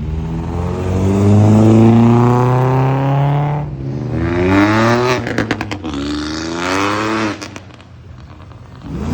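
Car engine accelerating hard, its pitch climbing in several pulls with sudden breaks between them, and a burst of sharp pops partway through.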